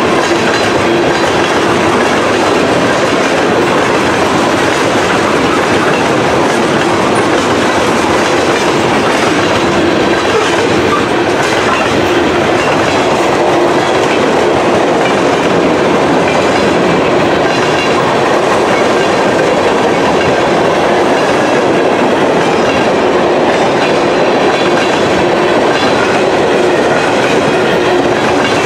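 Freight train of covered hopper cars rolling past close by, with a loud, steady rolling noise of steel wheels on the rails. A low steady hum runs through it.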